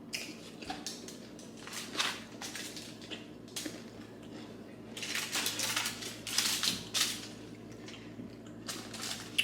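Eating at the table: crunching and chewing of crispy taco roll-ups, with scattered clicks of cutlery and dishes. The crunching is densest for about two seconds, starting around five seconds in.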